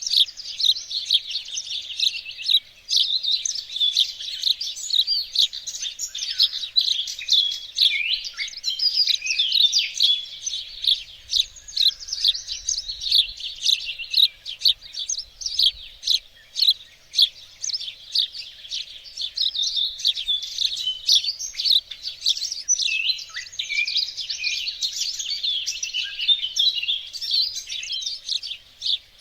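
Garden songbirds singing: many high chirps and trills from several birds overlapping continuously.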